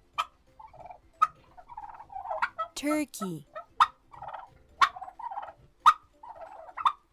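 Turkey gobbling in repeated bouts, each opening with a sharp call, about one a second.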